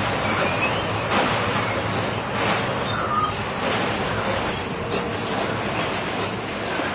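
A train running past on the rails: a steady rolling rush with a few faint, brief squeals, mixed with wind and storm noise.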